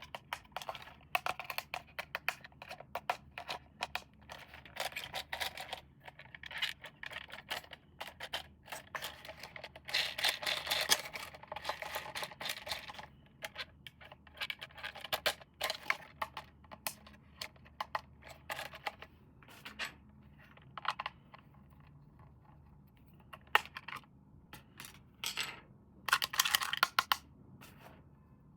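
Close unboxing handling noise: packaging rustling and crinkling, with many sharp clicks and taps. It comes in busy spells, one near the middle and a short one near the end, with only scattered clicks in between.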